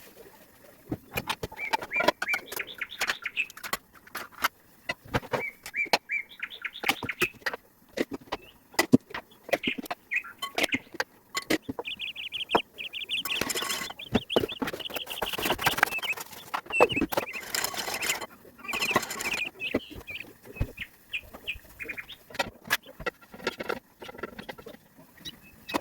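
Small birds chirping and trilling, mixed with many short clicks and knocks and a few brief stretches of hiss.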